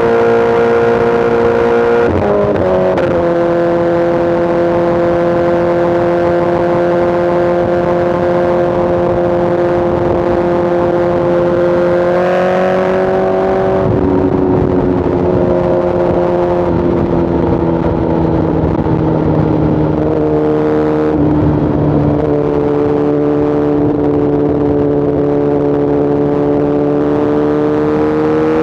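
Inline-four superbike engine and exhaust running at highway speed over a steady rush of wind. The pitch shifts briefly about two seconds in, climbs then drops back around the middle, and rises again near the end as the bike accelerates.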